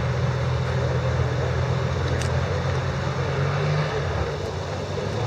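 A vehicle engine running steadily, a low drone whose pitch steps up briefly about three and a half seconds in and then settles back.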